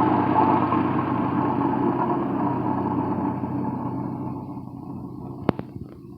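An engine running steadily, then fading away over the last few seconds, with a single sharp click about five and a half seconds in.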